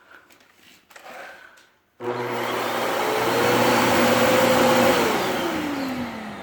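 Samsung 750 W corded vacuum cleaner: after a few faint clicks, it switches on abruptly about two seconds in and runs steadily. From about five seconds in, its motor pitch falls as it winds down after being switched off.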